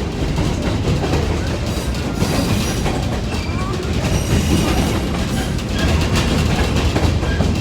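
Passenger train rolling along the track, heard from aboard: a steady rumble of wheels on rails with continual rattling and clicking from the cars.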